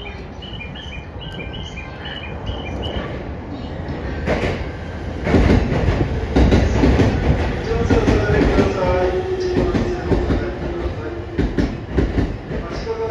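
A 185-series electric multiple unit pulling into the platform. A low rumble builds, wheels clatter over the rail joints from about four seconds in, then a wavering squeal falls in pitch as the train slows.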